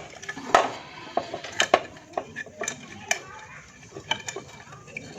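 Irregular metallic clinks and taps of hand tools and small metal parts during hand repair work on a Honda Grand motorcycle's magneto side.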